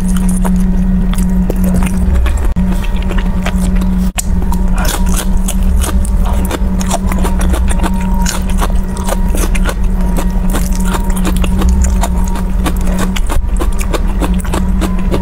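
Close-miked eating: many small wet clicks of chewing and biting through noodles, sausage and crisp lettuce, over a steady low hum.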